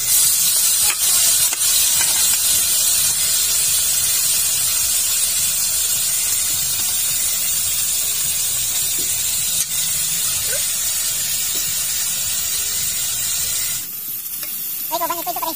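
Chunks of goose meat sizzling in hot margarine in a pan, a steady loud frying hiss that drops off abruptly near the end.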